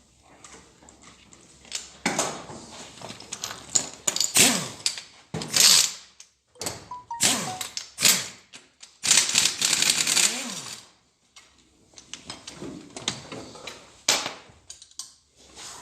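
Hand work on a car engine during disassembly: a run of irregular scraping, rubbing and knocking of parts and tools, with short squeaky glides, in loud bursts from about two seconds in until about eleven seconds, then quieter knocks.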